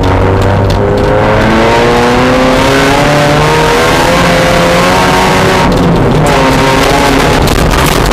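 Mazda Miata race car's four-cylinder engine running hard under load, its pitch climbing and dropping back as it accelerates and changes gear, over steady wind and road noise.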